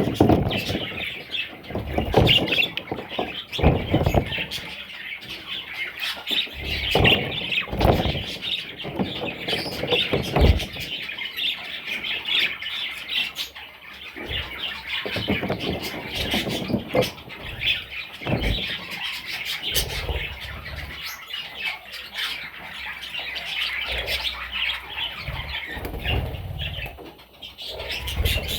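Budgerigars chirping and squawking steadily in a dense chatter, with frequent low knocks and rustles among it.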